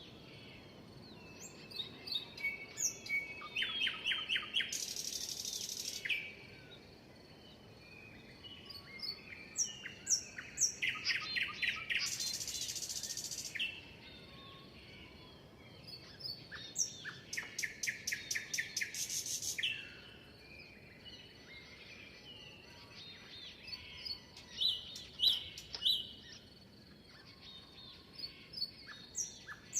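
Several songbirds chirping and singing, with rapid trills of quick repeated notes and a couple of harsh buzzy notes that each last a second or so.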